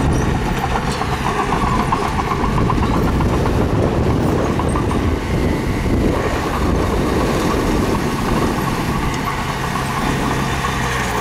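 Mini bulldozer's diesel engine running steadily under load, with a rapid metallic clatter from its tracks.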